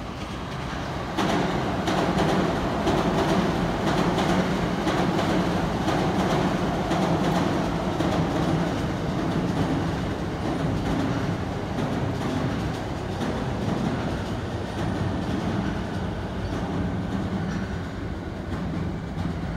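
JR electric commuter train passing on the tracks below: a steady rumble of wheels and motors with a run of rail-joint clicks. It grows louder about a second in and eases off a little near the end.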